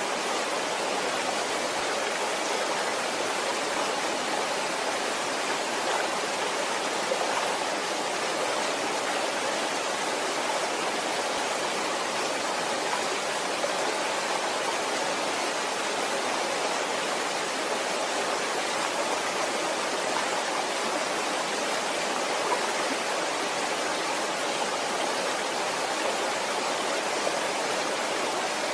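Waterfall: water falling and rushing in a steady, unbroken splash with no pauses.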